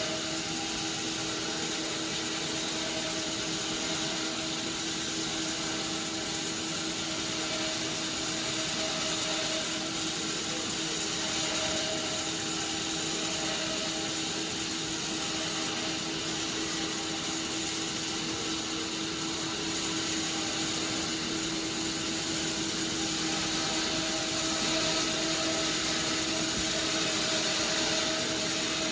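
Sawmill machinery running steadily, with a constant whine over a hiss.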